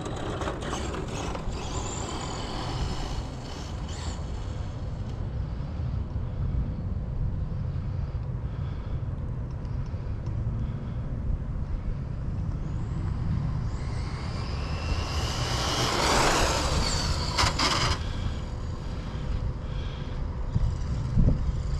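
Electric RC drag car (Losi 22S Camaro with Spektrum Firma electronics) running down a road: a thin motor whine and tyre noise that build to a pass about 16 seconds in, over a steady outdoor rumble.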